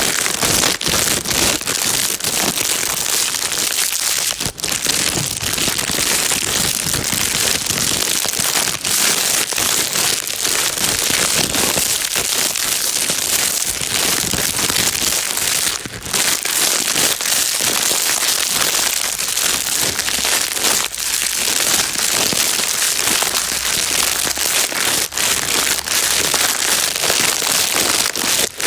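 Plastic bag being crinkled and rustled continuously, a dense steady crackle of many small crinkles, used as white noise to soothe a baby. It pauses very briefly a few times.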